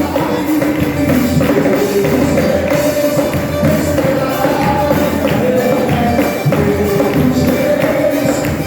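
Live church band playing a fast Pentecostal 'corinho de fogo' worship song, with a tambourine shaking and striking throughout and a sung melody over the band.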